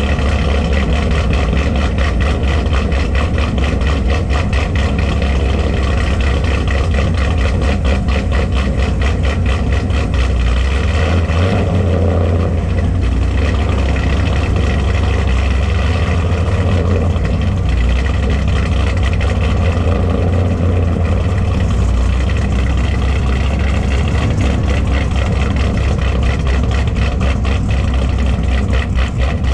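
An engine running steadily with a deep, even rumble; its pitch and loudness hardly change.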